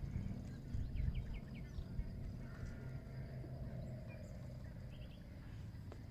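Birds calling: a few short chirps about a second in, then a fast trilling call that runs for a couple of seconds, over a steady low rumble.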